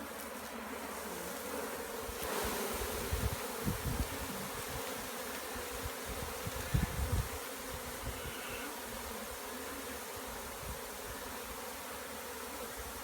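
A swarm of honey bees, freshly shaken out of a skep, buzzing in a steady mass hum. A few low bumps come through around four and seven seconds in.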